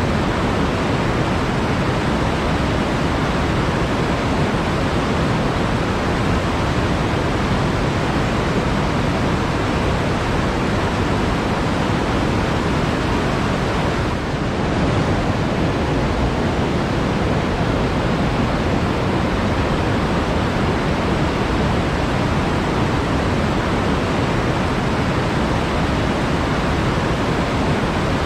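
Flowing water making a steady rushing sound, constant throughout, with a brief dip in level about halfway through.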